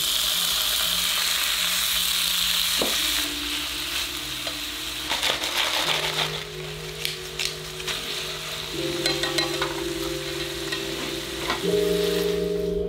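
Thinly sliced beef and onion sizzling in a hot frying pan, loudest in the first few seconds after the raw meat goes in, then easing. Chopsticks stir the pan with light clicks now and then.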